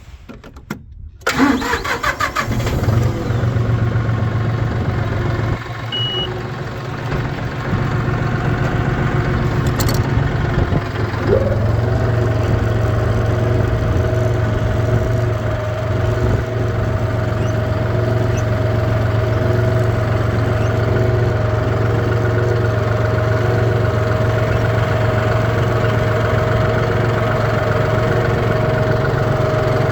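An engine starts about a second in and then runs steadily. A steady higher-pitched tone joins about eleven seconds in.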